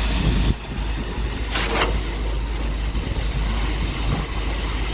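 Concrete boom pump truck running: a steady low rumble with a brief hiss about a second and a half in.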